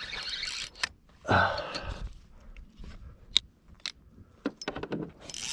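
Fishing reel worked in short noisy bursts while fighting a big hooked fish, with scattered sharp clicks. The loudest burst comes about a second and a half in.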